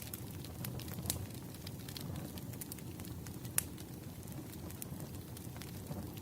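Wood fire crackling: irregular sharp pops and snaps over a low steady rumble, with one louder pop about three and a half seconds in.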